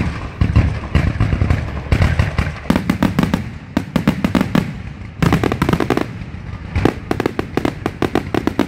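Aerial firework shells bursting in quick succession: heavy bangs every second or two, with rapid crackling between them.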